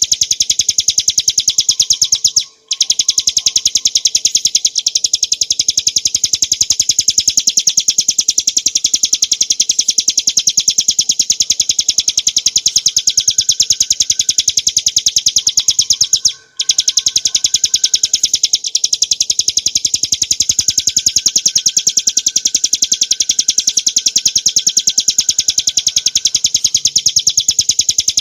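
Ciblek gunung (bar-winged prinia, Prinia familiaris) singing a fast, unbroken high trill of rapidly repeated notes, the continuous 'ngebren' song. It breaks off briefly twice, about two and a half seconds in and again about sixteen and a half seconds in.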